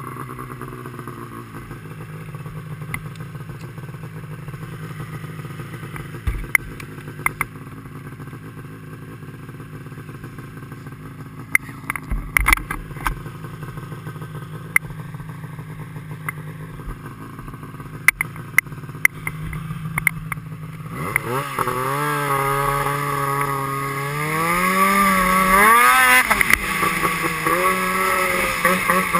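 Motorcycle engine idling with scattered sharp clicks and knocks. About 21 seconds in it revs up and pulls away, the engine note climbing twice and loudest near the end before settling.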